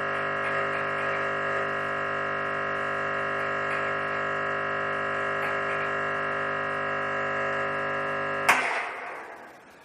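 Espresso machine's pump buzzing steadily while it backflushes the group head with cleaner. About eight and a half seconds in, the pump is switched off and a sharp burst of hissing pressure release dies away.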